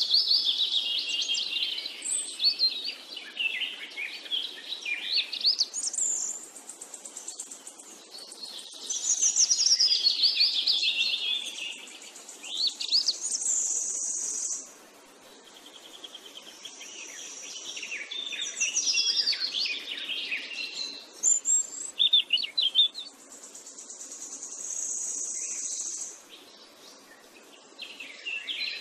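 Birdsong: several birds chirping and warbling in quick phrases, with a high, even trill held for a second or two every several seconds.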